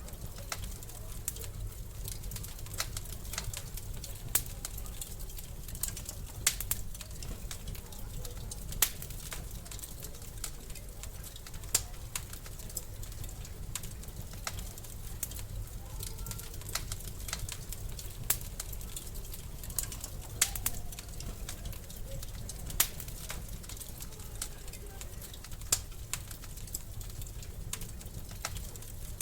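Wood fire crackling in a fireplace: a steady low rumble with frequent small crackles and a sharp pop every few seconds.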